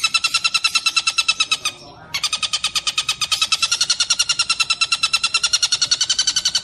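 Tengkek buto kingfisher giving a rapid, steady chattering trill of about a dozen harsh notes a second, with a brief break about two seconds in before it resumes.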